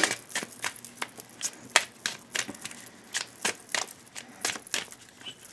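Tarot cards being shuffled and handled: a string of light, irregular card snaps and taps, about two or three a second.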